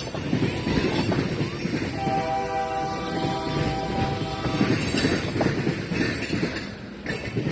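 Freight train rolling past with a steady rumble and wheel clatter. About two seconds in, the lead diesel locomotive's horn sounds one long chord of nearly three seconds.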